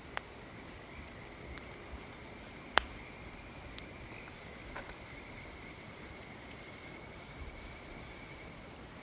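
Wood fire crackling, with scattered sharp pops; the loudest pop comes a little under three seconds in.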